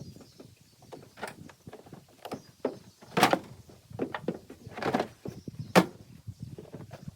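Irregular knocks and thuds of tools and materials being handled and loaded onto a pontoon boat, the two loudest bangs about three and six seconds in.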